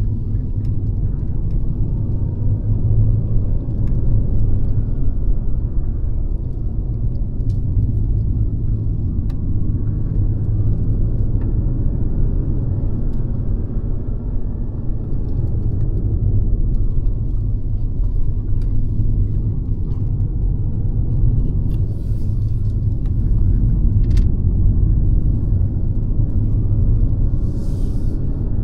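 Mercedes-Benz C-Class (W206) driving along at a steady pace, its engine and tyres making a continuous low rumble, with a few faint ticks.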